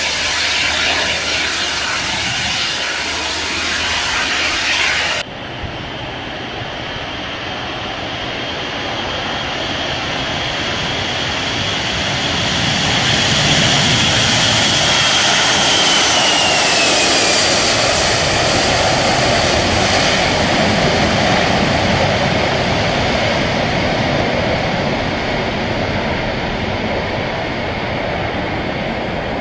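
Jet aircraft engine noise. After an abrupt change about five seconds in, a jet's noise swells to its loudest near the middle, with a high whine sliding down in pitch as it passes, and stays strong to the end.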